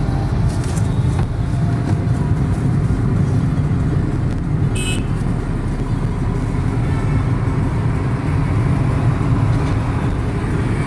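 Steady low rumble of a car being driven, heard from inside the cabin: engine and road noise. A short high-pitched sound comes about halfway through.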